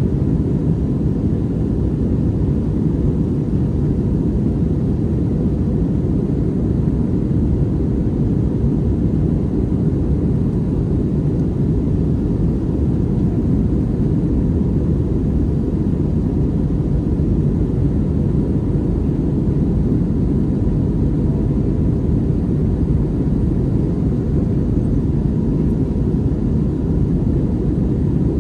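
Steady in-flight cabin noise inside an Airbus A321neo: a dense, even low rumble of engine and airflow noise, with a faint steady tone above it.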